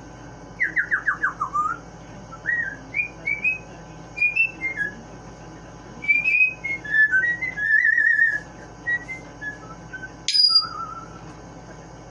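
Pet parrot whistling a string of varied notes. It opens with a quick run of about seven falling notes, goes on with rising and falling whistles and a warbling trill, and gives one sharp, loud squeak about ten seconds in.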